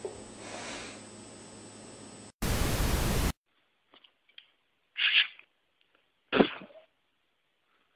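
Low hiss, then about a second of loud static hiss that cuts off suddenly. Later come two short, sharp bursts of noise about a second and a half apart.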